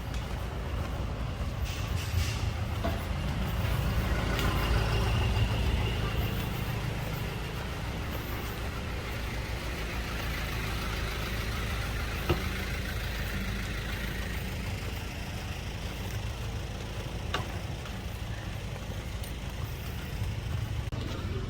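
Motor vehicle traffic: a steady low engine rumble that swells as a vehicle passes, about four to six seconds in, with a couple of short sharp clicks later on.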